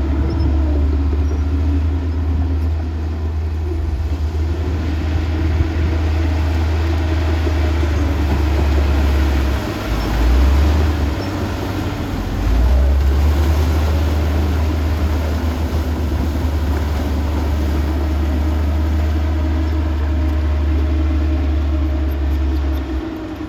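Heavy earthmoving machinery's diesel engine running with a steady low rumble. The rumble dips and shifts briefly about ten seconds in, then picks up again.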